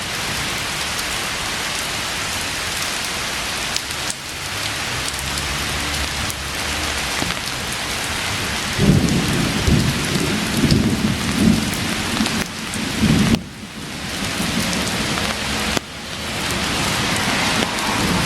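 Heavy thunderstorm rain pouring steadily, with a loud low rumble of thunder rolling in about halfway through and lasting several seconds, then briefly returning near the end.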